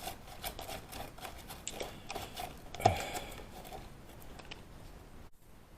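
Faint, scattered clicks and light knocks of hand tools and engine parts being handled, with one louder knock about three seconds in.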